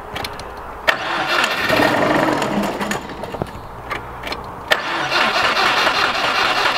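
Subaru WRX GC8's turbocharged 2.0-litre flat-four cranked on the starter and catching briefly, in two bursts: one about a second in and one again about five seconds in. The owner takes it to be running only on petrol poured into the intake, with no fuel coming from the tank.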